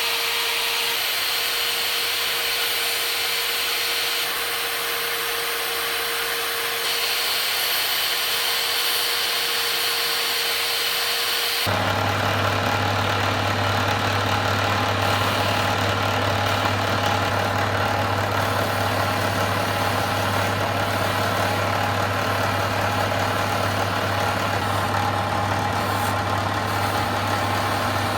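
Steady machine noise, like a running motor, hissy and high at first. About twelve seconds in it changes abruptly to a deeper, steady hum.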